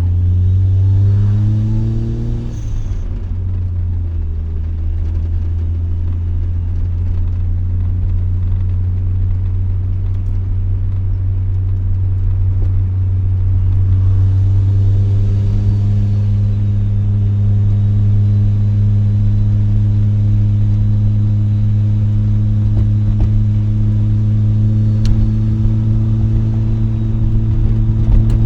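Mazda RX-7's two-rotor rotary engine through an RE Amemiya Dolphin Tail exhaust, heard from inside the cabin with the windows down. The pitch climbs for the first couple of seconds as the car accelerates, then settles into a steady low drone while cruising, stepping up slightly about halfway through.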